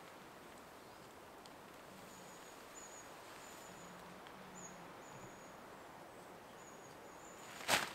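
Quiet woodland ambience with a string of short, high, thin bird calls. Near the end comes one brief, loud rustle from the tarp being handled.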